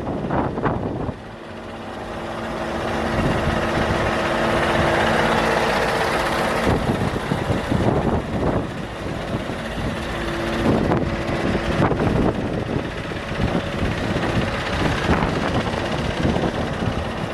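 Scania R580 truck's V8 diesel engine running, with a steady hum that swells over the first few seconds, and gusts of wind buffeting the microphone.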